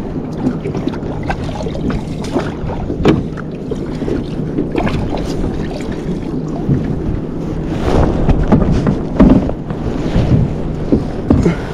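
Wind buffeting the microphone over water slapping against a kayak's hull, with scattered knocks and splashes.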